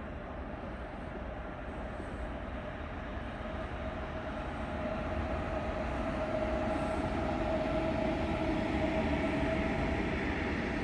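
ICE high-speed train pulling into the station, growing steadily louder, with a steady whine over the rumble of its wheels.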